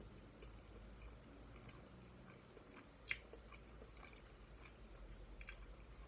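Faint chewing and mouth sounds of someone eating spaghetti, with scattered small clicks and two sharper clicks partway through.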